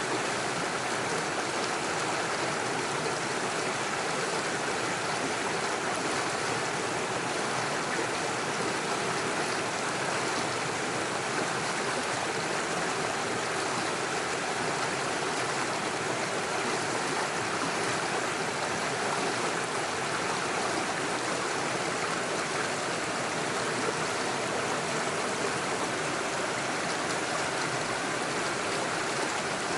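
Small stream rushing and splashing over stones in small waterfalls, a steady, even flow of water.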